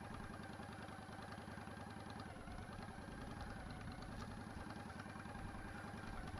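Motorcycle engine running steadily at low revs, an even, fast pulsing with no rise or fall in pitch.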